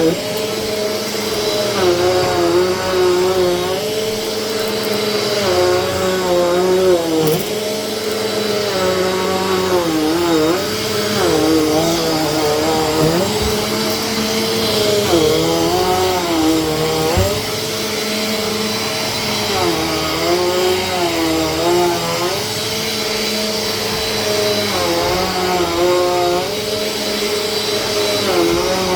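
Vacuum cleaner running steadily, its motor whine dipping in pitch and recovering about every two seconds.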